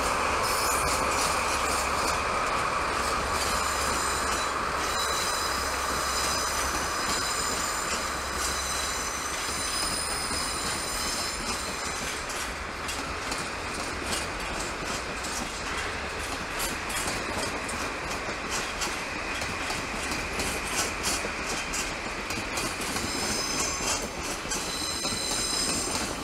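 A train running over yard track: a steady wheel-on-rail noise with high flange squeals that come and go, and bursts of clicks over rail joints and points.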